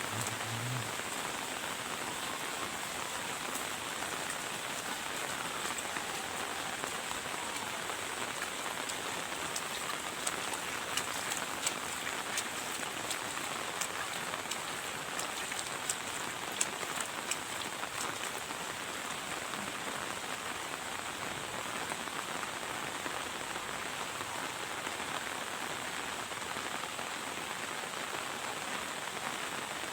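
Heavy monsoon rain falling steadily, an even hiss of downpour. Between about ten and eighteen seconds in, a scattering of sharp close taps stands out over it.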